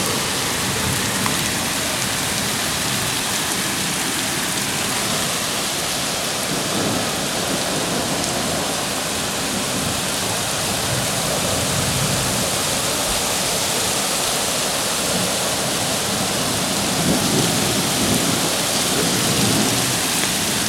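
Hail and heavy rain pelting down in a steady, dense hiss, with a few low rumbling swells.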